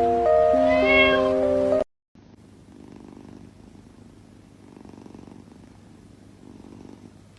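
Background music with steady held notes that cuts off about two seconds in. Then a domestic cat purring softly, the purr swelling and fading every second or two.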